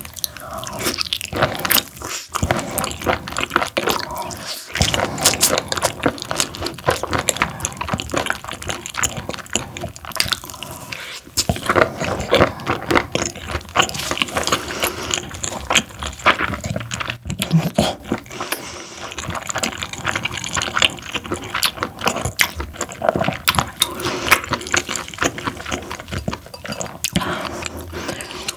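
Close-miked chewing of parboiled webfoot octopus: a steady run of wet, sticky mouth clicks and bites, with no pauses longer than a moment.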